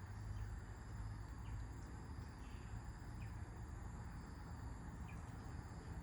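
Outdoor nature ambience: a steady high-pitched insect chorus over a low wind rumble, with a few short bird chirps scattered through.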